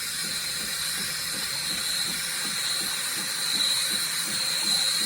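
KitchenAid KF8 espresso machine frothing milk through its milk attachment: a steady steam hiss with a rapid low pulsing from the machine underneath.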